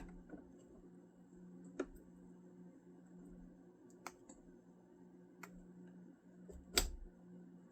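Four isolated sharp clicks, the loudest near the end, over a steady low electrical hum.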